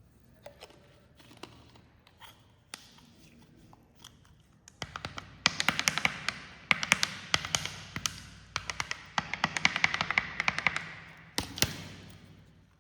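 Carbonated cola fizzing as it is poured: a few scattered ticks, then about five seconds in a dense crackle of popping bubbles over a hiss that fades near the end.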